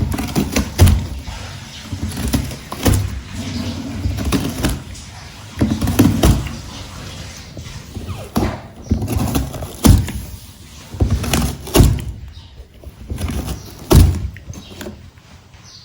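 Irregular thumps, knocks and scraping against a cardboard box as a cat bats and pounces at a teaser wand inside it. There is a sharp hit every second or two, with rustling between, and it dies down near the end.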